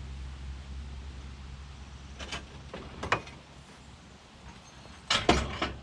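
Several short knocks and clatters: two single knocks a little under a second apart, then a louder quick cluster near the end. A low steady hum fades out about halfway through.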